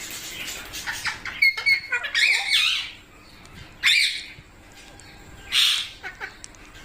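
Pet green parrots giving short, harsh squawks in a few separate bursts: a run of calls between about one and a half and three seconds in, another about four seconds in, and a short, noisier burst about five and a half seconds in.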